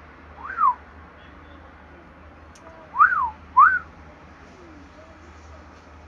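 Three loud whistled notes, each a quick rise and fall in pitch: one about half a second in, then a pair about three seconds in.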